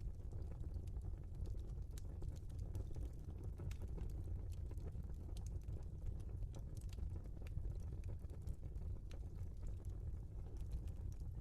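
Logs burning in a fireplace: a steady low rumble under frequent, irregular small crackles and pops.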